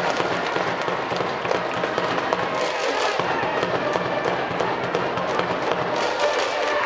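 Baseball stadium crowd noise from the stands: a dense clatter of many sharp claps and knocks, with music and voices mixed in.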